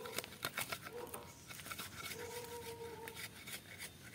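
Close-up eating sounds: a person chewing, with many sharp, irregular clicks and smacks, and a short steady hum about two seconds in.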